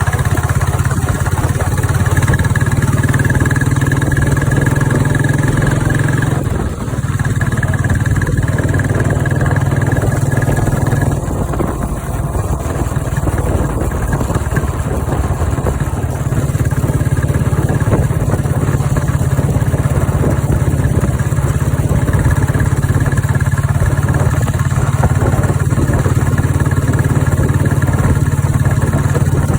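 Royal Enfield 350 single-cylinder motorcycle engine idling steadily, its level dipping briefly twice in the first half.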